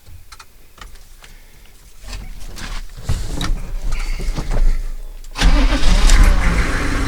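Chevrolet 3500 HD's 6.5-litre V8 diesel being started: a few light clicks, then the starter cranks for about three seconds. The engine catches about five seconds in and settles into a steady idle, starting easily.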